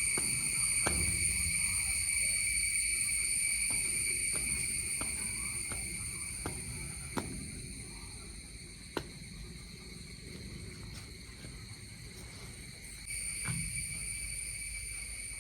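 Insects droning steadily at one high pitch, easing off through the middle and rising again near the end, with a few scattered sharp clicks.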